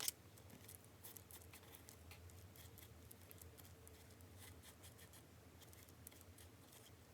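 Near silence: faint rustles and light ticks of paper being handled and pressed down, with one sharp click right at the start, over a low steady hum.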